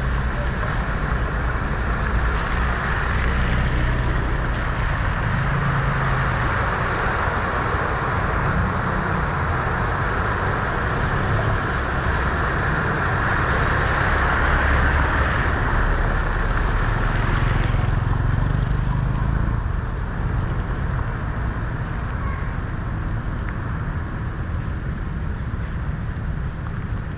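Vehicle driving through deep floodwater at a ford: a steady rush and splash of water with an engine running low underneath. The water noise eases about eighteen seconds in.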